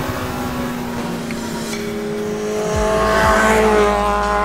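Mid-engine Rover Mini with a swapped-in Kawasaki Ninja motorcycle engine driving past at high revs. The engine holds a high, steady note that grows louder as the car passes about three and a half seconds in, then dips slightly in pitch as it pulls away.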